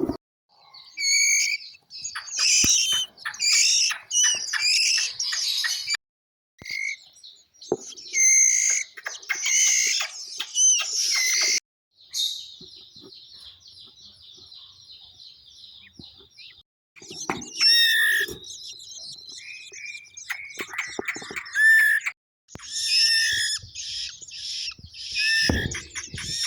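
Long-tailed shrike nestlings begging with dense, high-pitched chirping, in loud bursts that stop abruptly several times, with a fainter stretch of steady chirping in the middle.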